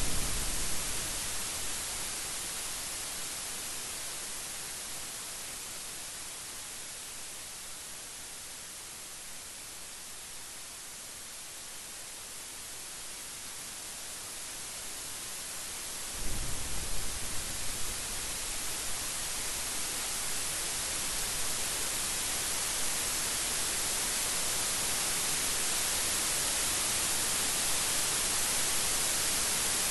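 Steady rain hiss. About halfway through, a roll of thunder breaks in with a low rumble and several sharp peaks over a couple of seconds, then fades back under the rain.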